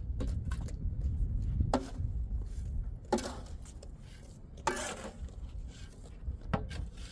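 A few separate, irregularly spaced knocks or chops, about four in all, over a low rumble that fades after the first two seconds.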